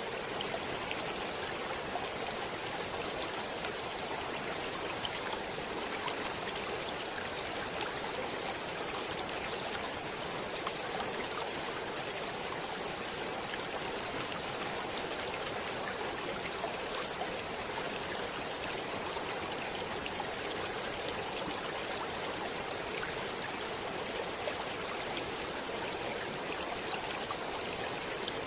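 Stream water flowing steadily: an even rush of water with faint scattered splashes and trickles.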